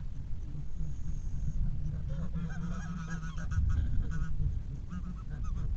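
Geese honking in a flock, a quick run of short repeated calls that starts about two seconds in and carries on almost to the end, over a steady low rumble.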